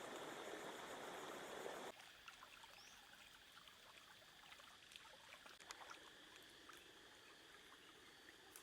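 Flowing water rushing steadily for about two seconds, then cutting off abruptly. After that, only faint outdoor ambience with scattered small clicks and a steady faint high tone.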